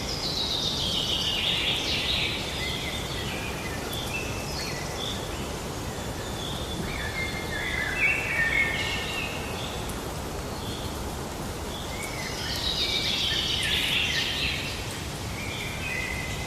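Songbirds singing over a steady background hiss: a longer falling song phrase at the start and again about three-quarters through, with short chirps in between.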